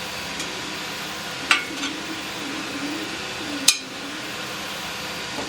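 A few sharp clicks and clinks of parts being handled while a side panel comes off an antique cash register: two close together a moment in, and a louder one with a brief ring a little past halfway. A steady fan-like hum runs underneath.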